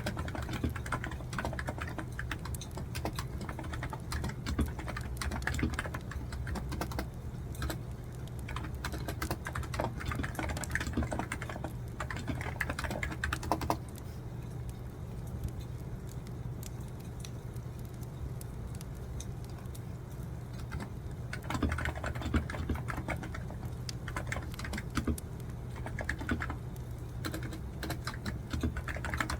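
Typing on a computer keyboard in bursts of quick key clicks, stopping for about seven seconds midway before resuming, over a steady low hum.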